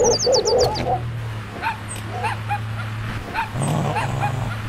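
A car engine starts about a second in and runs with a steady low hum. Short, high-pitched animal yelps and whimpers come over it, with a squeaky cluster of cries at the very start.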